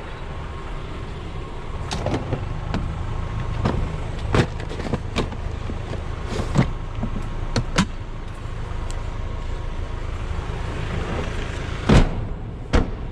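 A vehicle engine idling steadily, with scattered clicks and knocks of handling around the vehicle. A loud thump comes about twelve seconds in and a smaller one just after.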